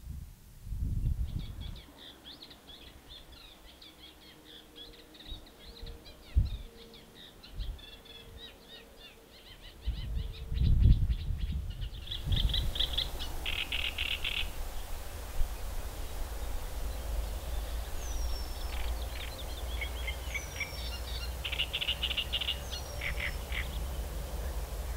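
Small songbirds singing in rapid, chattering trills, with a few short, high, falling whistles in the second half, over a low rumble.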